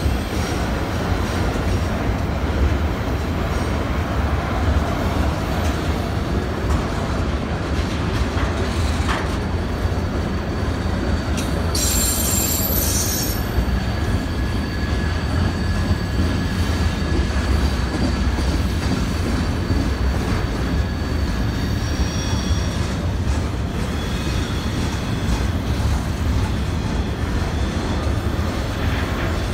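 CSX double-stack intermodal freight train rolling past: a steady rumble of steel wheels on rail, with thin high-pitched wheel squeal coming in over the second half.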